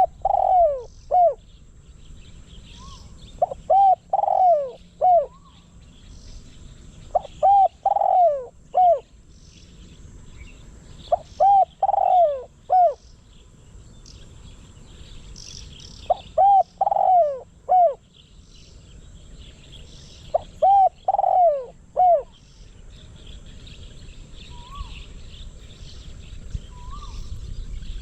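Decoy spotted dove cooing: a phrase of three to five coos, repeated six times about every four seconds. Small birds chirp faintly in the background.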